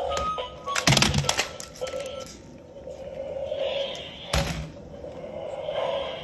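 Sharp knocks or clatters, one about a second in and another about four and a half seconds in, over a steady hum.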